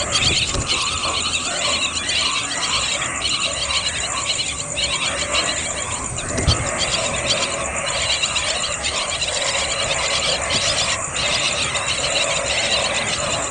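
Small birds chirping and squeaking in a dense, continuous chatter of many overlapping high calls, with a couple of brief low knocks.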